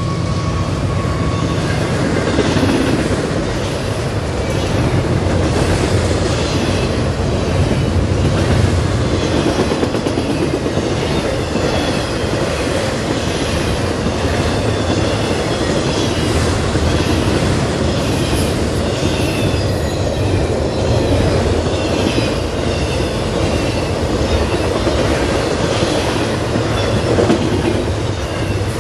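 Intermodal freight train of double-stack container cars and piggyback trailer cars rolling steadily past, wheels clicking over the rail joints. The tail of the locomotive horn fades out in the first second.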